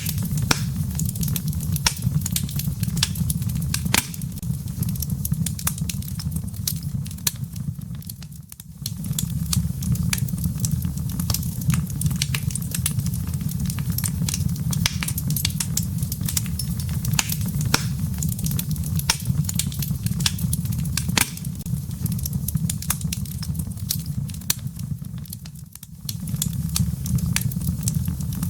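Wood fire crackling in a fireplace: frequent sharp snaps and pops over a steady low rumble of the flames. The level dips briefly twice.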